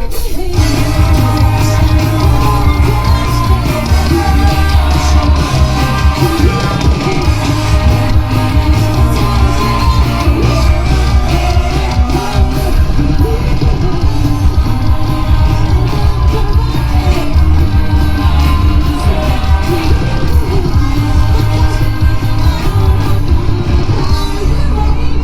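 Live rock band playing a J-rock cover, with drums, electric guitars and bass, and a woman singing lead.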